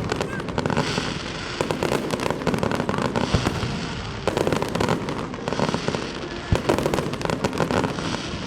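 Fireworks display: aerial shells bursting in dense, rapid salvos with crackling, coming in waves a couple of seconds long and thinning out briefly about halfway through.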